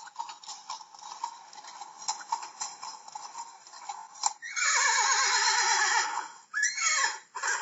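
Recorded horse sound effect: hooves clip-clopping at an even pace for about four seconds, then a loud neigh falling in pitch, followed by a shorter second whinny near the end.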